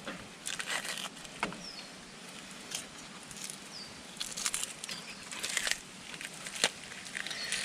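Six-spine leatherjacket being skinned by hand: intermittent short scraping and tearing sounds with scattered clicks as the tough skin is pulled from the fish. A few short chirps from a bird are heard in between.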